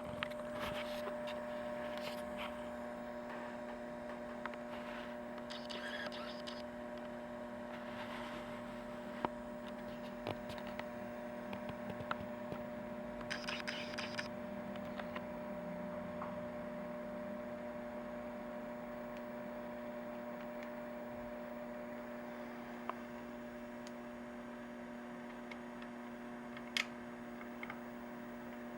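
Macdonald CE 100 scanner humming steadily from a fault, a hum of several steady tones, with a few faint clicks and two short scratchy bursts.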